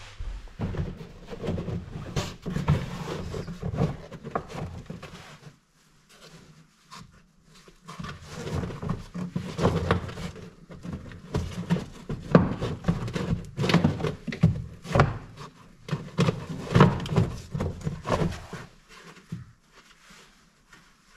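Plastic interior trim panel and push clips of a Peugeot 208 being pried and pulled loose by hand: irregular clicks, knocks and plastic rattling. The handling comes in two spells, with a pause about six seconds in, and dies down near the end.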